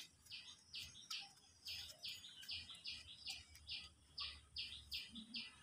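A small bird chirping over and over, a steady run of short high notes about three times a second.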